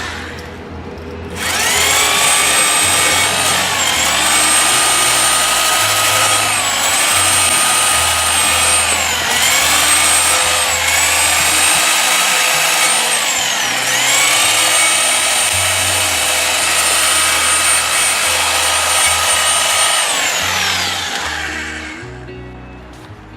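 Electric power tool motor running at high speed with a steady whine. Its pitch sags and recovers about five times, as if briefly loaded, then it winds down near the end. Background music plays under it.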